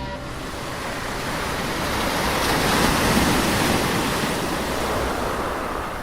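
Typhoon storm noise: a loud, even rush of wind and water that builds to a peak about three seconds in, then eases off.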